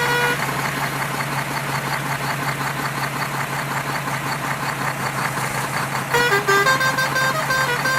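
A vehicle engine running with a steady, fast rattle over a low hum; about six seconds in, a bright stepped melody comes in over it.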